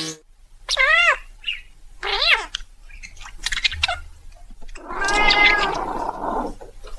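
Kitten meowing: two short meows rising and falling in pitch, then a longer, harsher drawn-out call about five seconds in.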